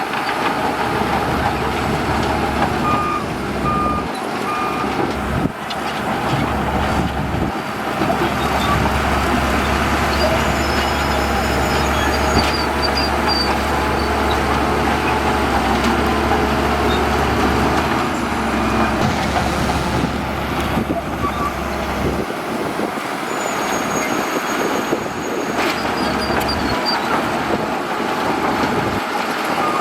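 Heavy diesel earthmoving machinery, dump trucks and a bulldozer, running under load. A reversing alarm beeps three times a few seconds in. The low engine rumble drops away in the last third.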